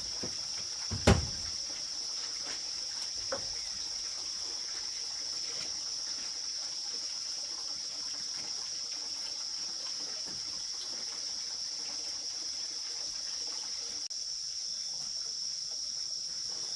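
Steady high chirring of crickets at night, with one sharp knock about a second in and a fainter one a couple of seconds later.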